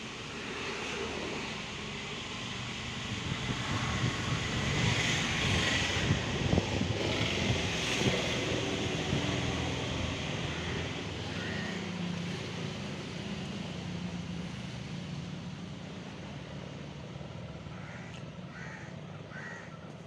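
Steady rustling noise that swells a few seconds in and slowly fades, with a few short bird calls near the end.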